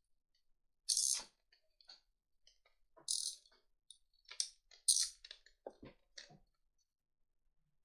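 Plastic segments of a 144-piece Rubik's Snake clicking as they are twisted by hand. There are scattered light clicks and three louder clicks about one, three and five seconds in.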